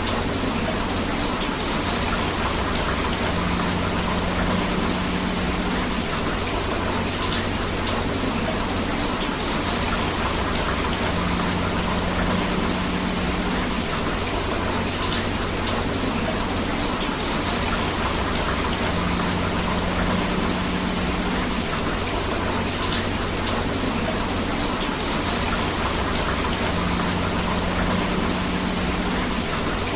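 Steady rain and rushing river water, an even hiss with no breaks. A faint low hum and a few light splashes come back about every eight seconds, the same short stretch of sound repeating.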